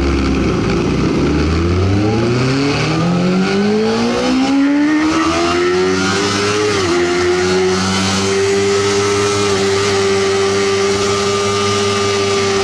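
Sportbike engine whose pitch climbs steadily for about six seconds, dips briefly, then holds at a high, steady pitch.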